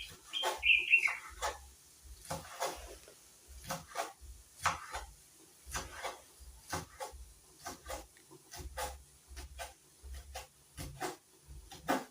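Knife chopping spring onions on a cutting board: irregular taps of the blade, roughly two a second.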